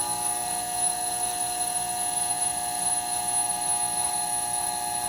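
Older Lionel model train locomotive's electric motor running steadily on the track after the power is switched on: an even mechanical whine with several steady tones, one of them high-pitched.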